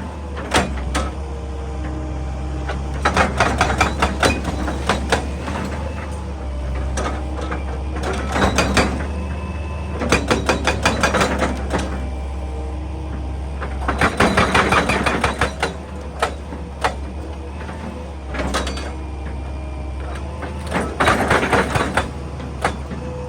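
Excavator working into rock and earth: its diesel engine runs steadily underneath while the bucket scrapes and clatters against stone in repeated spells of crunching and clanking every few seconds.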